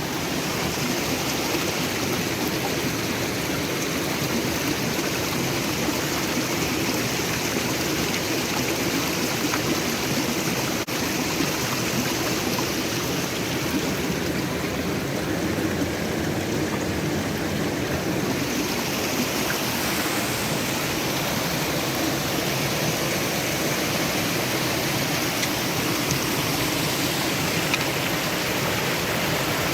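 Rocky forest stream rushing over stones: a steady, close wash of flowing water.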